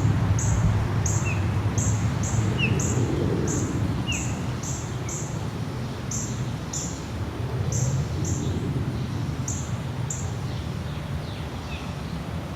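Deep, low rumble of a departed jet airliner's engines, slowly fading. Over it, high bird chirps repeat about twice a second.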